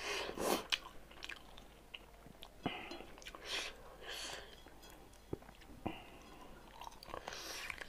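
Close-miked chewing and lip-smacking of a person eating rice and smoked pork by hand: irregular wet mouth sounds with a few sharp clicks.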